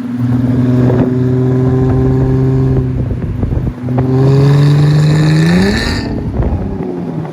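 Car engine pulling under load, holding one steady pitch, with a brief drop about four seconds in. The revs then climb, with a harsher, hissier edge, until the engine lets off about six seconds in.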